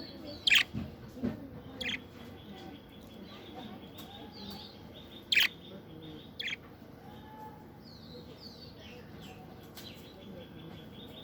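Small birds chirping: four loud, sharp chirps in the first seven seconds, with fainter high twittering in between and after.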